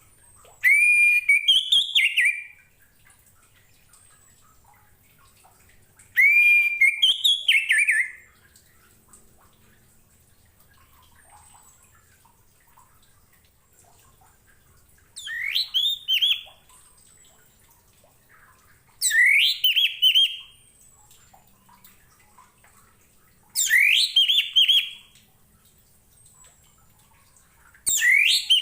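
Orange-headed thrush singing: short phrases of loud, sweeping whistled notes, each a second or two long, repeated six times with pauses of a few seconds between them.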